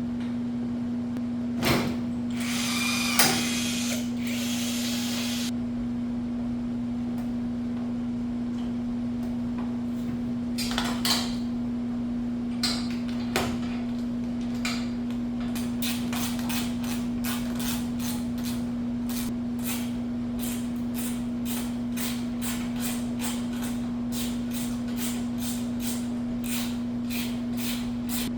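Tool work: a power tool runs briefly a few seconds in, then a string of clicks and knocks over a steady hum.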